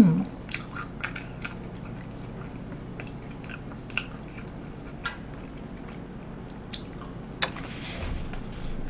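A person chewing and biting food close to the microphone: scattered soft mouth clicks and smacks, with a short rustle near the end.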